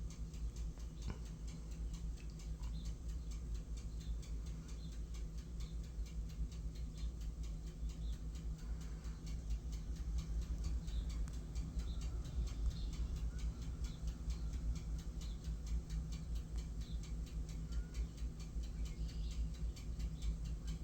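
Rapid, irregular clicking of mallard drakes' bills pecking and dabbling at their food, over a steady low hum.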